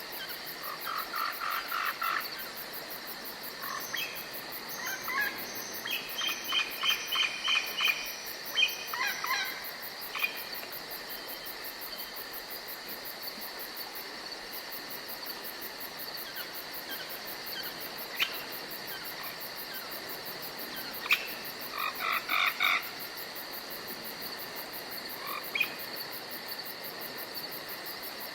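Forest ambience of insects chirring steadily at a high pitch, broken by bouts of short, rapidly repeated animal calls: briefly near the start, for several seconds from about four seconds in, and again about three quarters of the way through.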